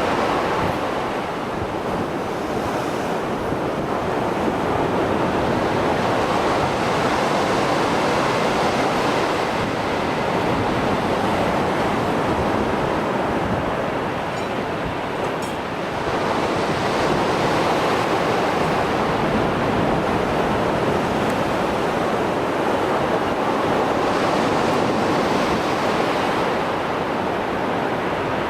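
Rough Mediterranean surf after a storm, waves breaking and washing ashore in a continuous rush that swells and eases every six to ten seconds.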